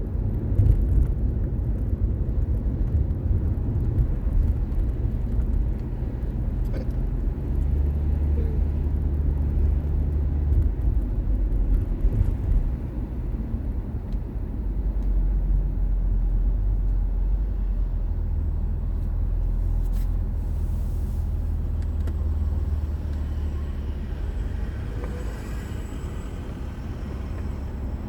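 A car driving along: a steady low rumble of engine and road noise that swells and eases slightly.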